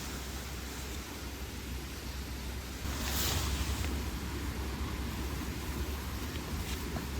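Wind on the microphone: a steady low rumble with hiss, swelling in a gust about three seconds in.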